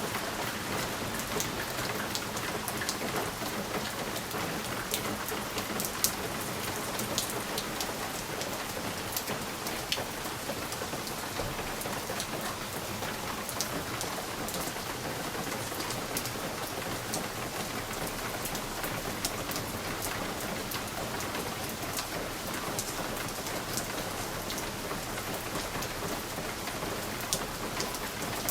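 Steady rain with many distinct drops tapping sharply on a window.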